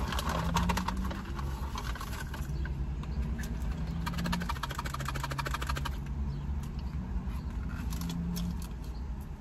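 Rustling and rapid crackling of food packaging being handled, in two stretches, the second from about three and a half to six seconds in, over a steady low rumble.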